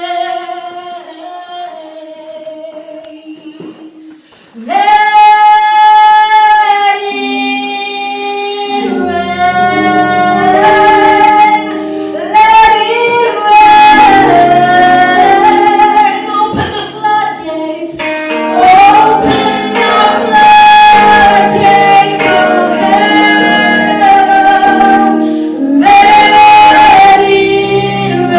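Worship song sung by a woman's voice, unaccompanied and fading at first, then a strong held note about four and a half seconds in. Instrumental accompaniment with a low bass joins about nine seconds in, and the singing carries on over it.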